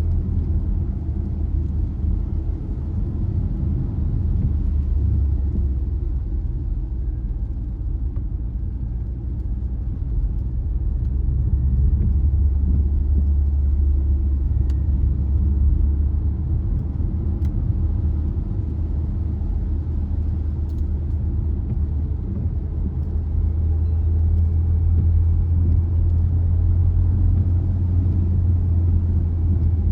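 Car driving along a road: a steady low rumble of engine and road noise that swells and eases slightly.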